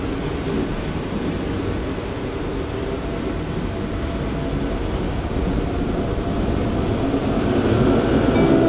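Train passing at a station, a steady rolling noise that slowly grows louder, with a few steady tones coming in near the end.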